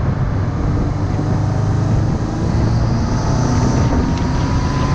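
Car engine running steadily at speed, with a thin whine that rises slowly in pitch, and wind rushing over the microphone.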